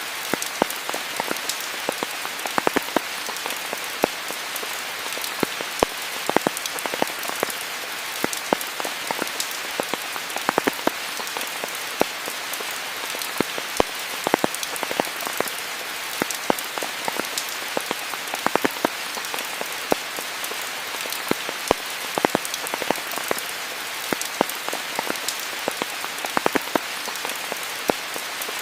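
Steady rain falling in a rainforest, an even hiss with many close, sharp drops striking leaves and surfaces at irregular moments.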